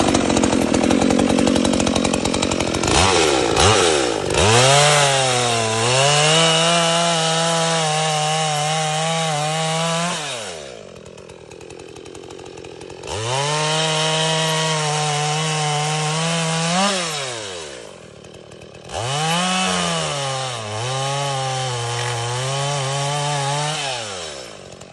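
Holzfforma G182E two-stroke chainsaw running. It is revved up and held at high speed, then drops back to idle and is revved up again, three high-speed runs in all, and falls to idle near the end.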